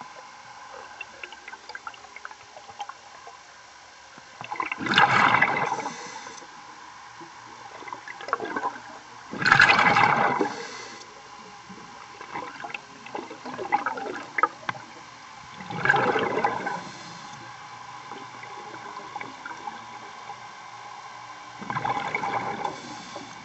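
Scuba diver's exhaled bubbles heard underwater: a rush of bubbles from the regulator roughly every five to six seconds, four times, one for each breath out. Between the breaths there are faint clicks and a thin steady tone.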